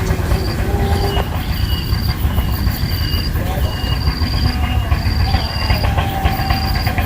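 Birds calling: thin, high drawn-out notes about once a second, with lower wavering notes among them, over a heavy wind rumble on the microphone.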